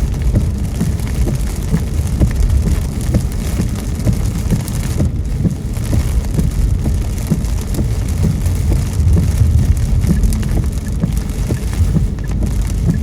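Rain pattering on a moving car's windshield and roof, many small drop ticks over a steady low rumble of the car on the wet road.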